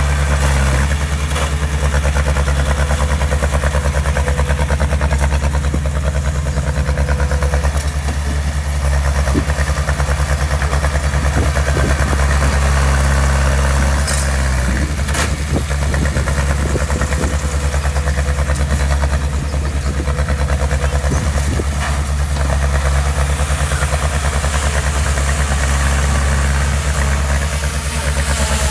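Heavy-equipment diesel engine running steadily at a low, even idle, with a brief sharp click about halfway through.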